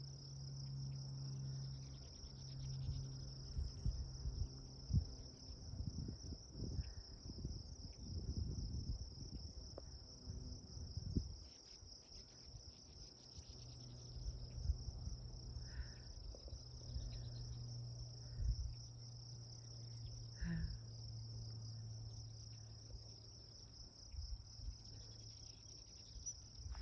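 Insects trilling in a steady, high, unbroken drone, with scattered low thumps and rumbles close by, most of them in the first half.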